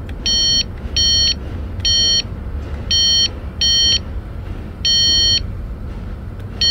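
A beeping test light touched to fuse after fuse: seven short, high electronic beeps at uneven intervals, each beep showing that the fuse has supply, over a steady low rumble.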